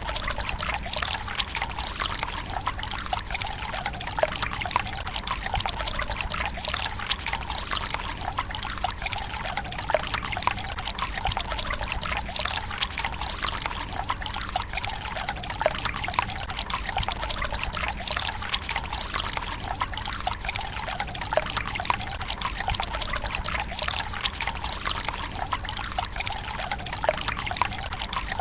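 Water running from a bamboo spout into a stone tsukubai basin: a steady trickle with a constant patter of small splashes.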